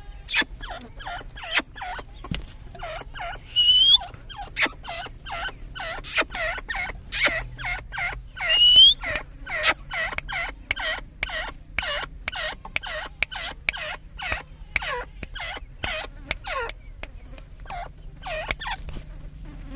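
Grey francolin (Dakhni teetar) calling: a long rapid series of short repeated notes, each dropping in pitch, about two to two and a half a second, with a higher rising squeal twice among them. The series stops just before the end.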